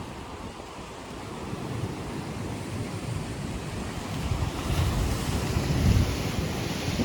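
Choppy lake waves washing against the shore, with wind buffeting the microphone; the wind rumble swells about four seconds in and is loudest near six seconds.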